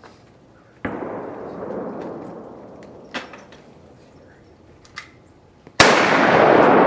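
Gunfire at an outdoor shooting range: a heavy boom about a second in, trailing a long rolling echo, then two sharper single shots. Near the end comes the loudest boom, followed by a long rumbling echo.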